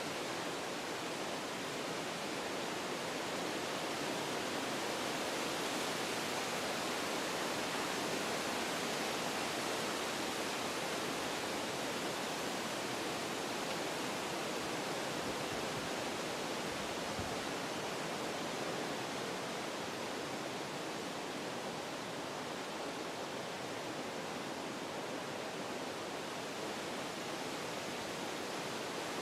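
Wind blowing through forest trees, a steady rush of leaves and branches that swells a little and then eases.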